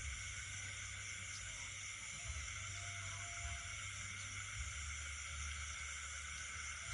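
Night chorus of insects and frogs: a steady, shrill, unbroken insect trilling, with a faint lower call drawn out once around the middle.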